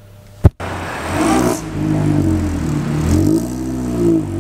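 A single sharp click about half a second in, then a car engine revving and accelerating, its pitch climbing and dropping several times, as in a supercharged R53 Mini Cooper S pulling through the gears.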